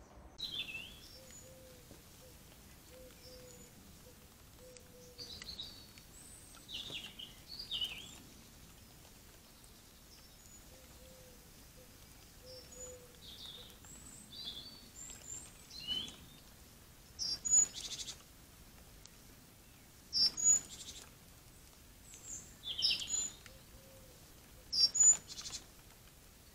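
Birds chirping and singing outdoors in short phrases, with a few louder calls in the second half, over a faint low repeated note early on.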